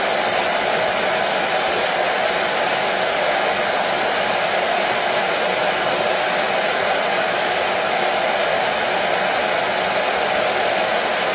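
Washing machine running: a steady, unchanging whoosh with no knocks or change of pace.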